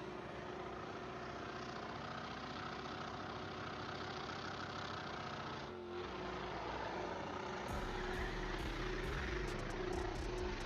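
Supercharged Chevrolet LS V8 in a pickup truck held at steady high revs during a burnout, with a steady supercharger whine over the engine note and a brief dip about six seconds in.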